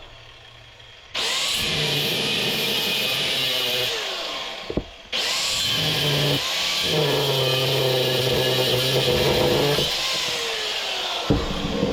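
Electric power tool cutting into a steel compressor shell: it starts about a second in, stops briefly near the middle and starts again, running with a steady whine over a harsh hiss, its pitch falling near the end.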